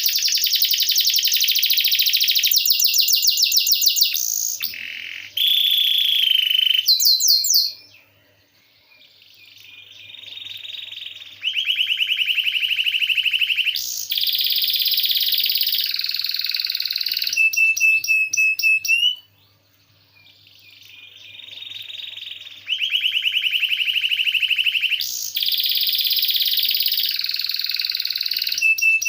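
Domestic canary singing long rolling trills: phrases of very fast repeated notes alternate with short whistled notes. The song drops out twice and fades back in, about 8 and 19 seconds in.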